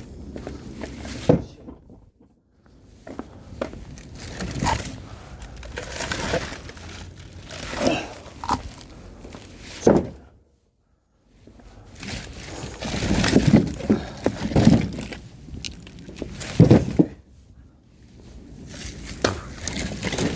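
Irregular thunks and rustling of objects being handled and set down, with a short dead gap about halfway through.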